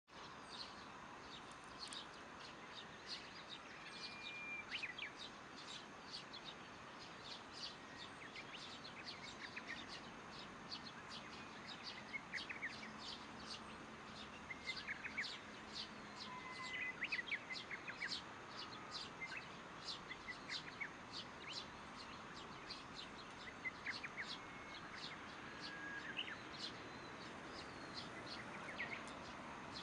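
Small birds chirping throughout, many short high calls, some in quick clusters, over a steady outdoor hiss.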